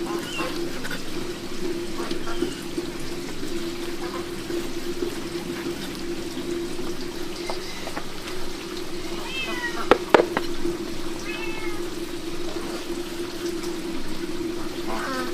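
A domestic cat meowing several times, short falling calls coming mostly in the second half, over a steady sound of running water. Two sharp knocks about ten seconds in.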